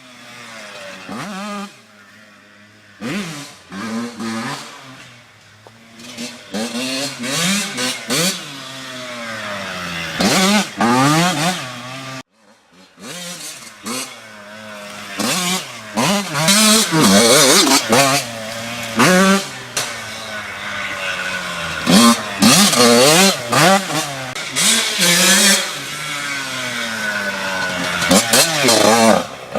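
Yamaha YZ85 two-stroke dirt bike engine revving hard, its pitch climbing and falling again and again as the rider accelerates and shifts. The sound cuts out briefly about twelve seconds in.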